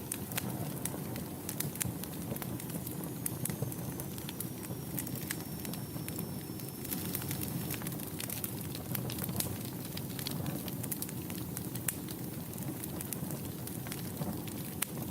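Wood fire burning in a fireplace: a steady low rumble of flames with irregular sharp crackles and pops throughout. A faint thin high whistle sags slightly in pitch from about three to eight seconds in.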